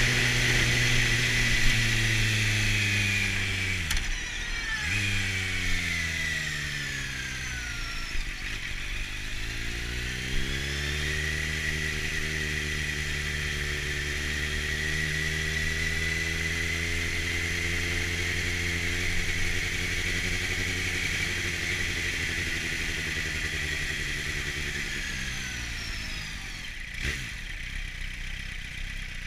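2004 Kawasaki Z750's inline-four engine through a LeoVince aftermarket exhaust, heard from the rider's knee while riding. The revs dip sharply twice in the first several seconds, then climb and hold steady. Near the end they fall away as the bike slows.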